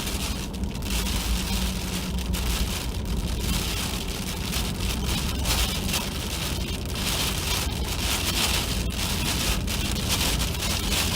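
Freezing rain and ice pellets hitting a plow truck in a dense, steady rattle, with the truck's engine running as a low hum underneath.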